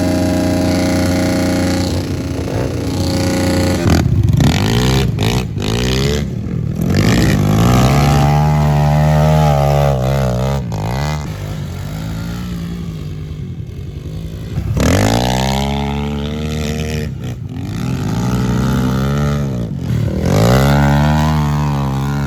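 Pit bike engine running at a steady speed for about four seconds, then revving up and dropping back over and over as the bike is ridden round a dirt track.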